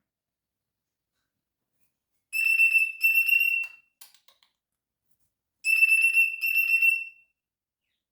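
Pet cockatiel whistling: two short phrases, each of two notes held at the same steady high pitch, the second phrase following a couple of seconds after the first.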